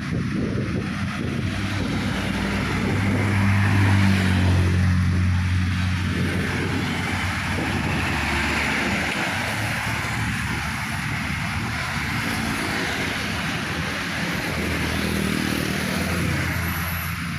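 Heavy trucks driving past on a road: a low diesel engine drone swells as one passes about four seconds in, and another comes through near the end, over steady tyre and traffic noise.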